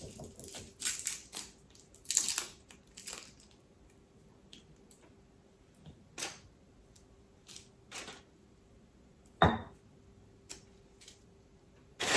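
Scattered crunches and clicks of food and utensils being handled during kitchen prep, a few louder ones about one, two, six and nine and a half seconds in, over a faint steady hum.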